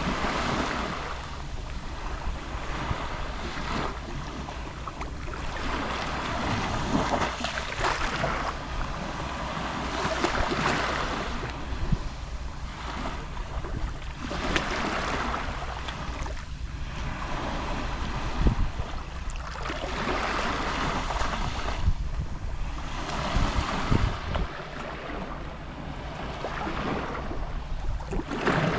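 Gentle sea waves lapping on the shore, each wash of surf swelling and fading about every four seconds, over a steady low rumble.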